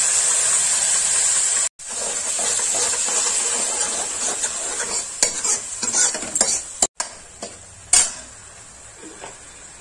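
Tomato purée sizzling as it hits hot ghee and fried onion-garlic masala in a kadhai, loudest at first and dying down over the seconds. A steel ladle stirs it and clicks and scrapes against the pan, most plainly in the second half.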